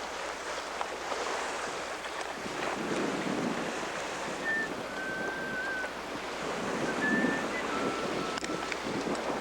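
Ocean waves rushing and surging around a sailboat in a heavy sea, with wind buffeting the microphone. From about halfway in, a few faint, short whistle-like tones sound at steady pitches.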